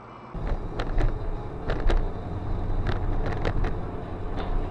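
A car's engine and road rumble heard from inside the moving vehicle, with a series of sharp knocks and rattles, the loudest about one and two seconds in.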